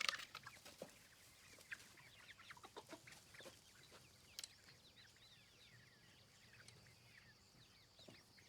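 Faint chirping of birds outdoors: many short, quick downward chirps, overlapping, over a faint steady high tone. A sharp click at the very start and another about four and a half seconds in.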